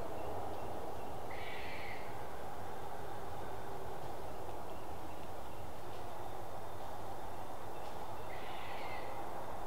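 A bird calling twice, short harsh calls about seven seconds apart, over a steady rushing background noise.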